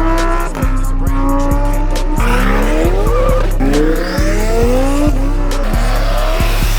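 Car engines revving hard and accelerating, their pitch climbing and dropping through several gear changes, with tyre squeal. A hip-hop beat with heavy bass runs underneath.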